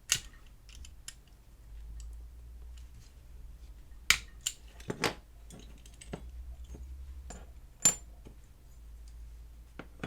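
Small diecast metal parts being handled and set down: a few sharp light clicks and taps, several seconds apart, as the bottom plate comes off the model's body, over a faint low steady hum.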